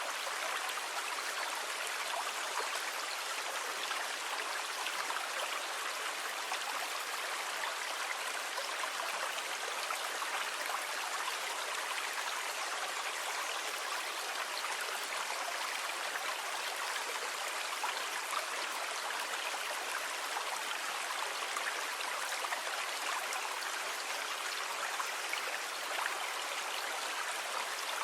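Steady wash of sea water: an even hiss with fine crackle, without separate breaking waves rising and falling.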